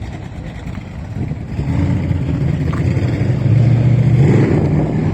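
A car engine running, its low hum swelling about a second and a half in and staying loud.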